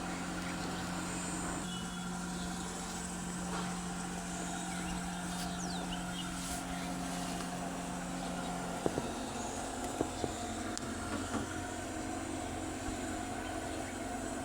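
A steady mechanical hum with low, even tones. Its pitch drops to a lower tone about nine seconds in, and a few light clicks come around then.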